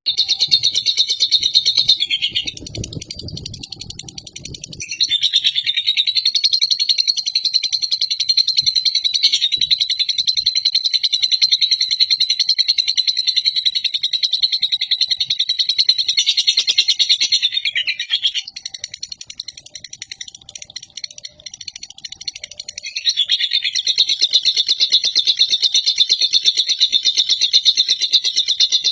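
Lovebird singing its 'ngekek': a long, very rapid, high chattering trill held for many seconds at a stretch. It breaks off a couple of seconds in and again a little past the middle, then starts up again.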